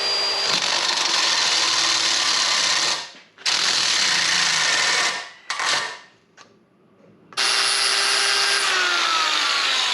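A handheld power tool working a steel socket in four bursts with short pauses between, the last one slowing slightly near its end.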